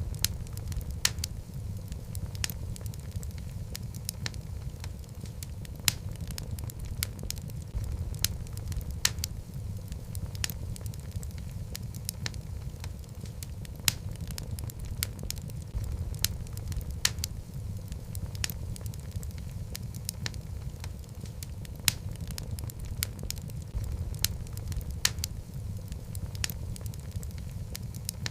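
Wood fire of burning logs in a fireplace crackling, with frequent sharp irregular pops and snaps over a low steady rumble of flame.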